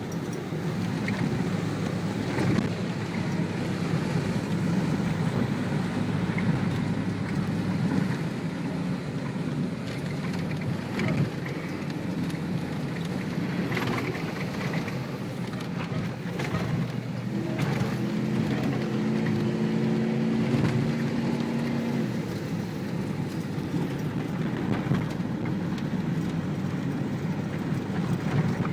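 Ford Bronco prerunner driving on a rough dirt trail: steady engine and tyre rumble with scattered knocks and rattles from the bumps. A steady droning tone joins for about four seconds past the middle.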